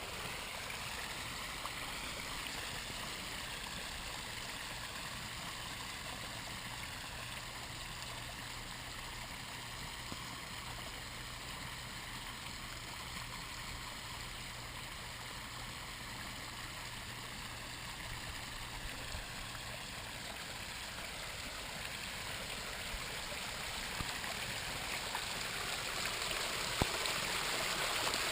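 Water from a pondless waterfall running steadily over rocks, a continuous splashing and trickling that grows a little louder over the last several seconds.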